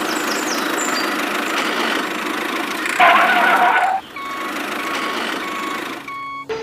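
Vehicle engine noise, then a loud horn-like blast about three seconds in, followed by a reversing alarm beeping steadily, about every two-thirds of a second.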